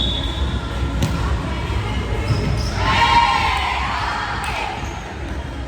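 Volleyball being played: the ball is struck sharply about a second in, and a player shouts about three seconds in, over steady low background rumble.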